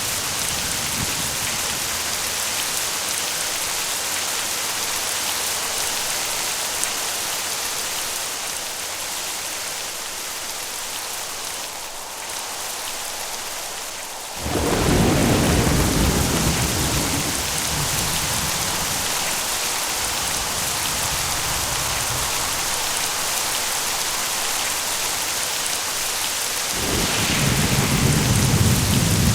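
Steady heavy rain hissing, with thunder: about halfway through, a clap of thunder breaks in suddenly and rumbles on for several seconds, and a second rumble begins near the end.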